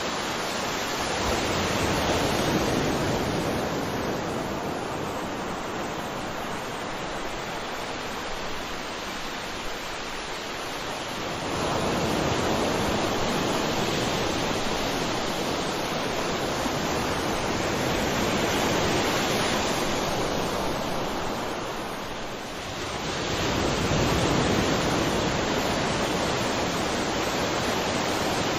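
Sea waves breaking and washing up a shore: a steady rush of surf that swells three times, about every ten seconds, as each wave comes in.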